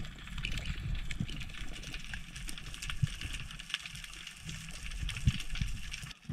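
Water sloshing and gurgling around a diver's camera, with a low rumble and many scattered short clicks and crackles.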